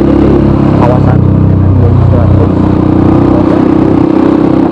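Honda CRF 150L's single-cylinder four-stroke engine running through a Norifumi RV1 N4 aftermarket exhaust. Its note shifts about a second in and again around two and a half seconds in.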